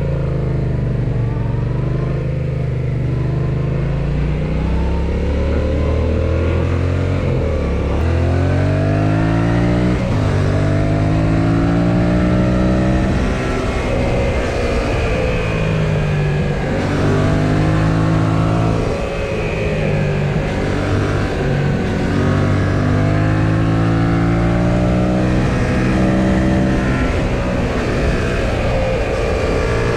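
2018 Yamaha XSR700's 689 cc parallel-twin engine running under way, heard from on board; its pitch repeatedly climbs and falls back as the throttle opens and closes and the gears change.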